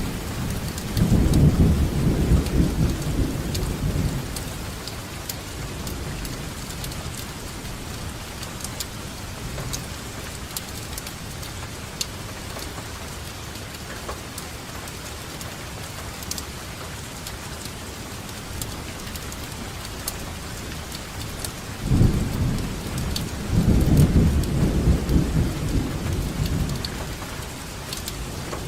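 Steady rain falling, with separate drops ticking now and then. Two long rolls of thunder rumble low, one just after the start and lasting about three seconds, the other a few seconds before the end.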